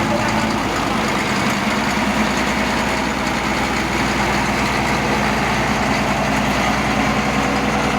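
Heavy diesel engine running steadily at a low, even idle, with a deep hum and a wash of mechanical noise over it.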